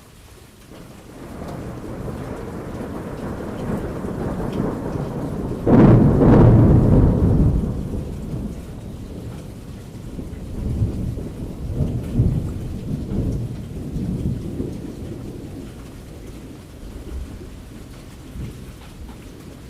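Thunder over steady rain. A rumble builds about a second in and breaks into a loud crack near six seconds, then rolls on in several swells and fades.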